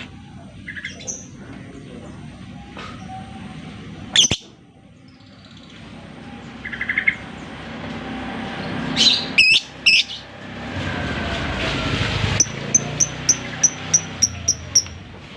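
Lovebird calling: scattered sharp, high chirps, then near the end a quick even run of about nine short high chirps, roughly four a second.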